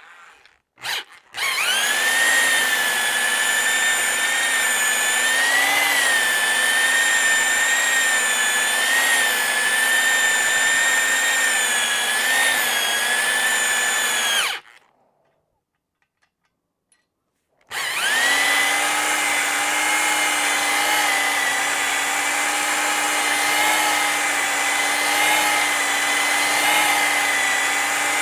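Electric power drill running at a steady speed, a pitched motor whine. A short blip of the trigger comes first, then a run of about thirteen seconds. It stops for a few seconds, then runs again until near the end.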